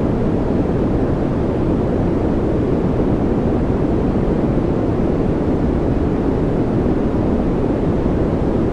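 Steady white-noise track: an even, unchanging rushing hiss that is deep rather than bright, with most of its energy low down.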